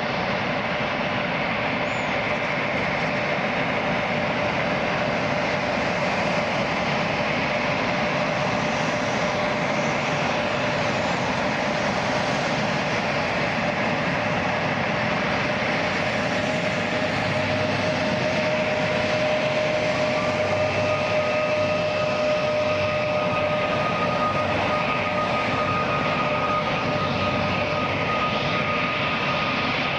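Airliner turbine engines running as aircraft taxi, a steady rushing noise with a high whine; a second whine rises in pitch about two-thirds of the way through and then holds.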